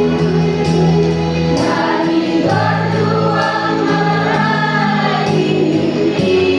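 School choir singing in parts, several voices holding long notes that change together every second or two.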